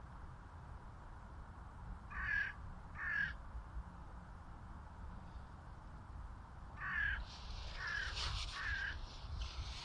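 Crows cawing: two short harsh caws about two seconds in, then three more near the end over a rougher, noisier patch, against a steady low rumble.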